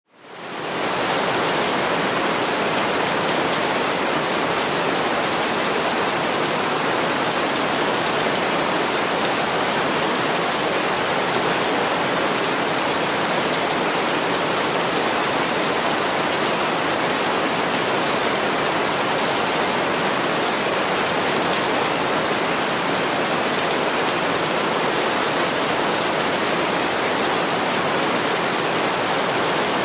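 Heavy rain falling on window glass, a steady, even hiss that fades in at the very start.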